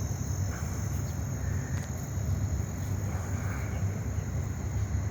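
Outdoor lakeside ambience: a steady high-pitched drone of insects over a constant low rumble, with a few faint chirps.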